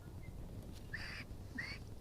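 Two short bird calls about half a second apart, each a brief call with a rising hook in pitch, over a steady low rumble.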